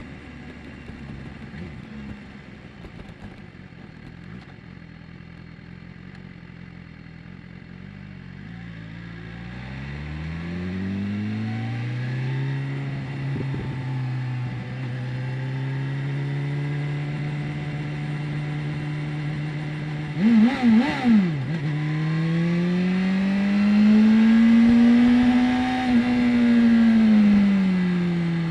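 BMW S1000R's inline-four engine, running low and steady at first, then climbing in pitch as the bike accelerates about a third of the way in and holding a steady pitch. About two-thirds through come three quick sharp revs, then the engine climbs again and eases off near the end.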